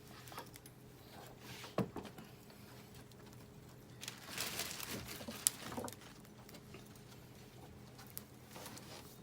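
Wood campfire of scrap SPF lumber crackling, with scattered small pops and clicks and a busier stretch of crackling and rustling about four seconds in, lasting around two seconds.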